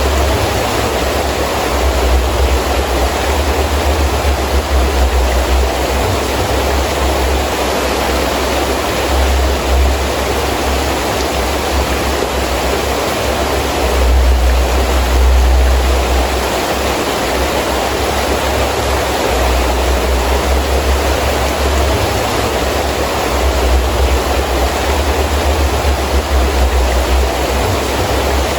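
Heavy rain falling steadily with gusting wind, a constant rushing hiss. A low rumble comes and goes under it, swelling most about halfway through.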